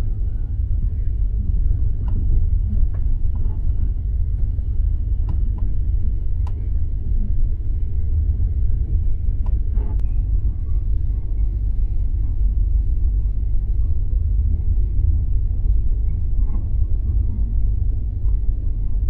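Steady low rumble of a passenger train carriage running, with a few faint scattered clicks and knocks.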